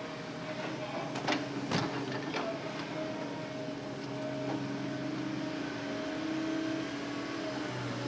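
Hitachi Zaxis excavator's engine and hydraulics running steadily with a whine, its pitch shifting slightly as the machine works. Three sharp knocks sound between about one and two and a half seconds in.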